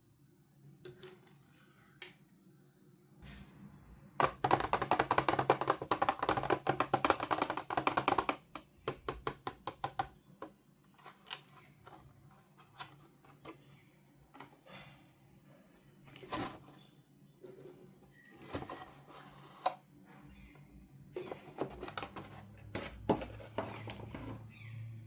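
Toy packaging being handled and opened by hand: a dense run of rapid crackling clicks for about four seconds, thinning out, then scattered clicks and taps.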